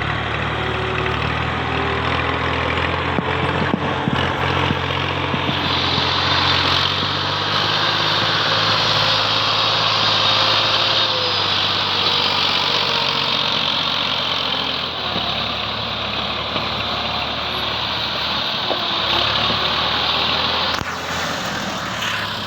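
Massey Ferguson 240/260 tractor's three-cylinder Perkins diesel engine running steadily, pulling a loaded trolley.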